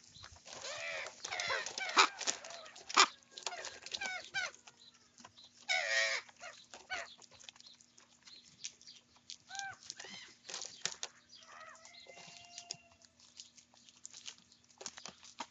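Young ravens calling as they squabble over food: a jumble of short croaks and squawks mixed with sharp clicks, busiest in the first several seconds, thinning out, then picking up again near the end.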